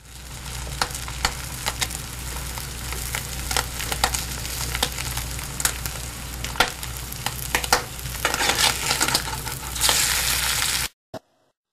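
Food frying in hot oil: a steady sizzle full of irregular crackling pops over a low steady hum, cutting off suddenly near the end.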